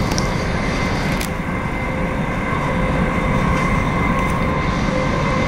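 Running noise heard from inside the carriage of an electric passenger train travelling at speed: a steady, even rumble of the wheels on the rails, with faint steady whining tones over it and a single light click about a second in.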